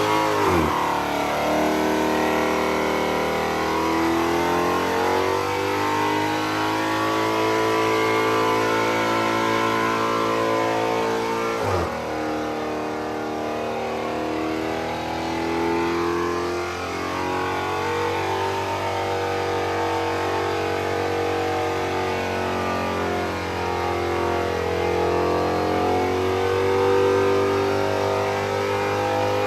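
Car engine held at high revs through a burnout, a continuous loud note that drifts slowly up and down in pitch, with a brief drop in revs about twelve seconds in.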